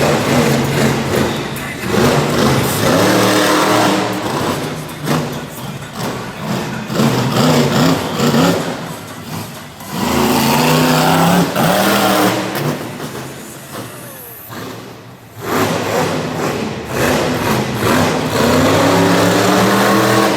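Monster truck engine revving hard in repeated surges, its pitch climbing and falling with each throttle blip, easing off briefly about two-thirds of the way through before revving up again.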